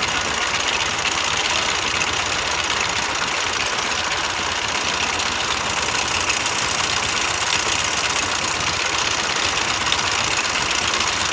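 Tafe 585 DI tractor's diesel engine running steadily at an even speed.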